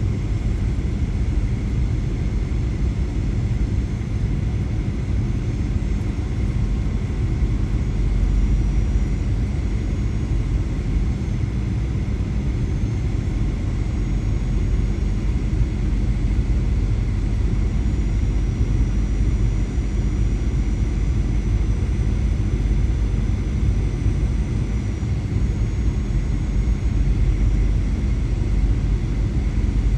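Steady rumble of an Airbus A320's engines and airflow heard inside the passenger cabin, with a few faint steady whining tones above it.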